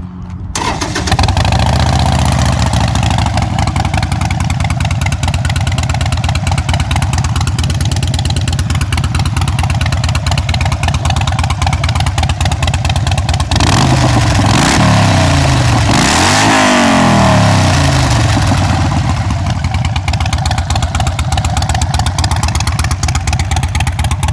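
Harley-Davidson Forty-Eight Sportster's 1200 cc V-twin through a Vance & Hines staggered Short Shots exhaust. It jumps to full loudness within the first second, then idles with a steady pulsing beat. It is revved twice, about halfway through, rising and falling in pitch each time, and then drops back to idle.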